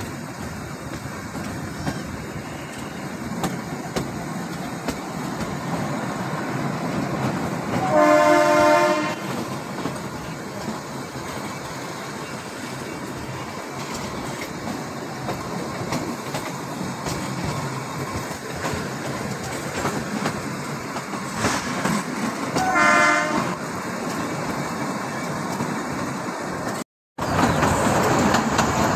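Narrow-gauge toy train running, its wheels rumbling steadily on the track, with the horn sounding twice, about a second each time: once about a quarter of the way in and again about three quarters in. Near the end a brief cut gives way to a louder rushing noise.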